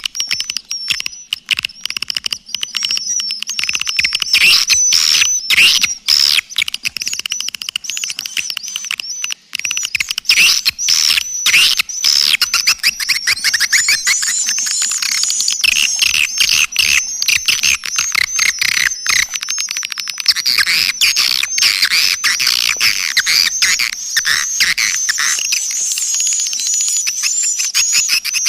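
Swiftlet lure call: a dense, unbroken stream of rapid, high-pitched chirps and twitters of edible-nest swiftlets. It is a recorded calling sound played to draw swiftlets into a bird house.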